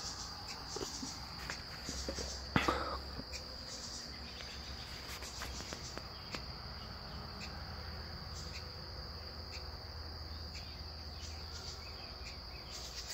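Steady, high insect trilling, like a chorus of crickets, with scattered short chirps over it and one sharper, louder sound about two and a half seconds in.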